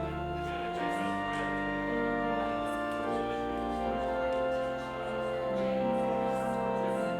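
Church organ playing a slow postlude of sustained chords, each held steady for a second or more before moving to the next.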